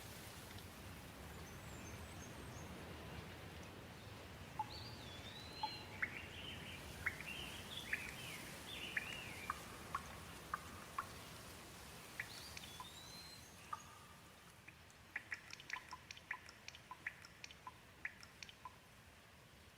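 Gentle rain falling as a faint steady hiss, with birds calling: a rising-and-falling whistled note repeated a few times, and a cluster of chirps. In the last few seconds, a quick run of sharp water drips.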